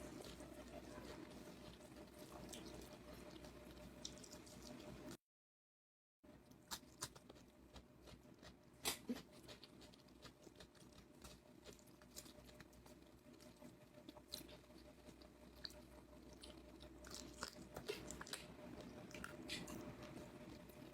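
A person chewing food, with soft, scattered mouth clicks and smacks. The sound cuts out completely for about a second, about five seconds in.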